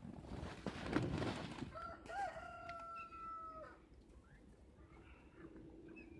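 A rooster crowing once: a single long, held call of about two seconds, coming after a burst of rustling and handling noise.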